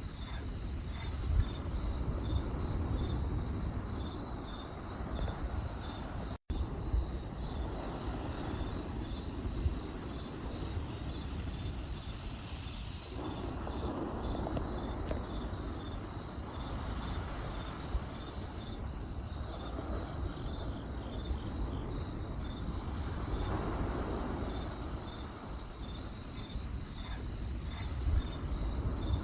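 Crickets chirping in a steady pulsing trill over a crackling campfire, with a low rumble of burning and a few sharper pops. The sound cuts out for an instant about six seconds in.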